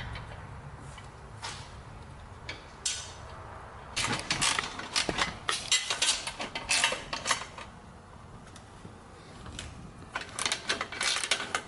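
Metal clinking and rattling as exhaust pipe sections and hardware are handled and fitted together: a run of sharp clinks from about four seconds in, then another cluster near the end.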